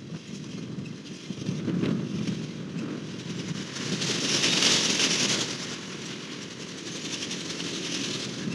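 Freight train cars rolling past on the rails, a steady rumble and rattle of wheels, with a louder hiss swelling about halfway through.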